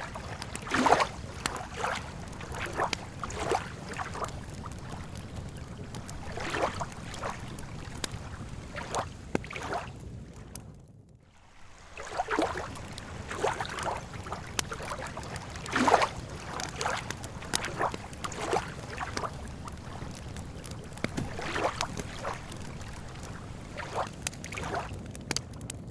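Lake water lapping at the shore in irregular soft splashes, with a campfire crackling and giving the odd sharp pop, over a steady low rumble. The sound briefly drops almost to silence about eleven seconds in, then resumes.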